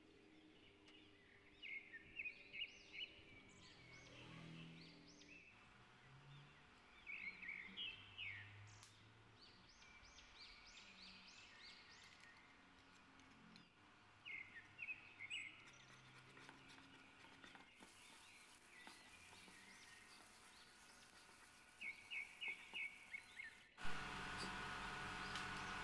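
Faint bird chirps in four short bursts of quick repeated notes. Near the end a louder steady hiss sets in as chopped garlic fries in oil in the pan.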